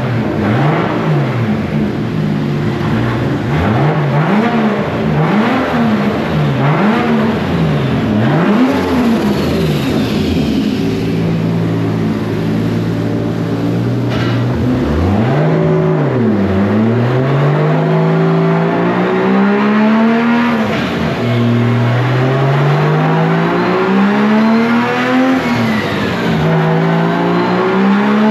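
High-powered car engine revved hard in quick blips for the first several seconds, then accelerating in long pulls, its pitch rising and dropping sharply at each gear change.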